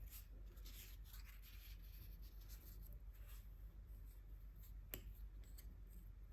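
Soft strokes of a paintbrush spreading acrylic gouache on paper, several in the first three seconds or so, then a single sharp click about five seconds in.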